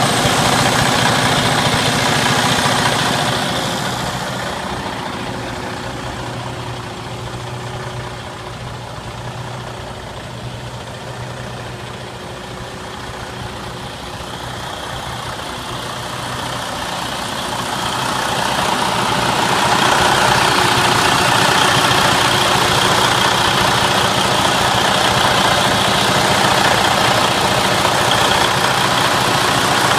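Detroit Diesel DD15 diesel engine of a Freightliner Cascadia highway tractor idling steadily. It gets softer and duller for a stretch in the middle and comes back louder from about twenty seconds in.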